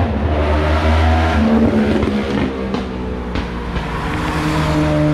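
Car engines running and revving as cars pull away, one after another: a deep, low engine note gives way about a second and a half in to another engine whose pitch rises as it accelerates, and a steadier engine note holds near the end.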